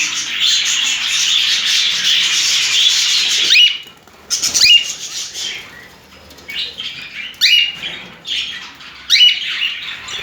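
Pet budgerigars bathing: a dense, continuous rustling noise stops abruptly about four seconds in. After it, single budgies give short rising chirp calls, about five of them spaced a second or so apart.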